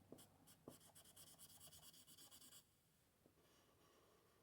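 Faint scratch of an Ohuhu alcohol marker nib on card in quick repeated colouring strokes, blending the background, stopping about two and a half seconds in.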